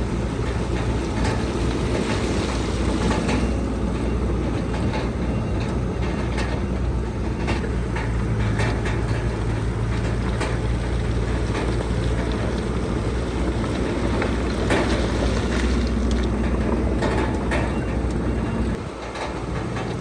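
Heavy diesel earthmoving machinery running steadily under load, with clanking and scattered knocks over the deep engine drone. The low drone drops off sharply near the end.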